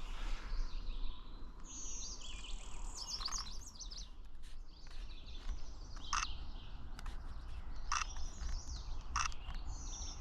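Blue-winged-warbler-type song: a high, buzzy phrase about two seconds in and another near the end, with short sharp bird call notes between. The singer looks like a golden-winged warbler, which the birder takes as a sign of a possible hybrid.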